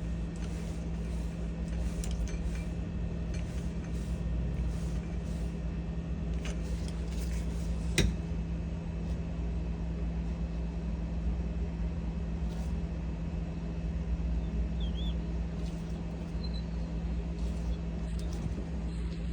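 Steady low machine hum with a constant tone, with a few light clicks and taps and one sharp click about eight seconds in.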